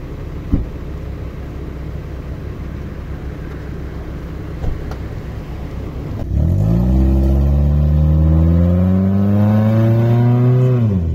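Sedan's engine running steadily, then from about six seconds in revving hard as the car accelerates away, its pitch climbing for several seconds before dropping off near the end. A single sharp knock about half a second in.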